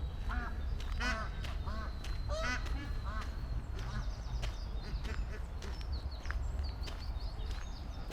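Ducks quacking, a quick series of quacks over the first three seconds, then small birds chirping.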